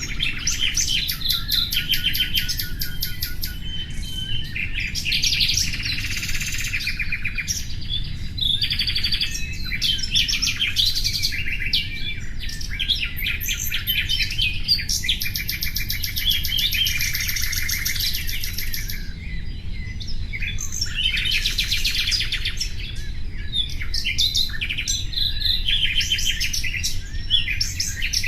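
Nightingale song: a nearly unbroken run of rapid trills and repeated whistled notes, with phrases following one another and overlapping, over a steady low background hum.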